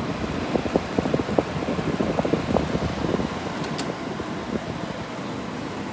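1971 Philco-Ford Noiseless 11,000 BTU window air conditioner running with its cover off, its fan blowing steadily while it cools. Scattered light knocks and ticks sound over the first three seconds or so.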